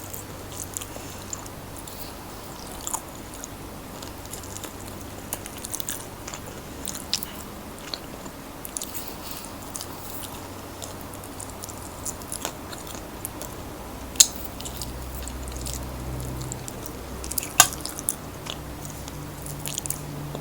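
Close-miked chewing and crunching of crispy fried chicken: a run of small crackles and wet mouth sounds, with two sharper crunches past the middle.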